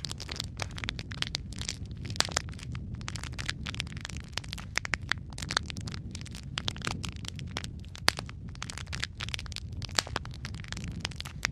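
Wood fire burning in a fireplace, crackling and popping constantly and irregularly over a steady low rumble of the flames, with a few louder pops.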